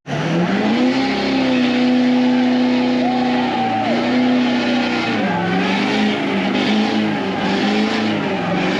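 A truck engine revs up about a second in and is held at high, steady revs. It drops a little about five seconds in and then wavers up and down.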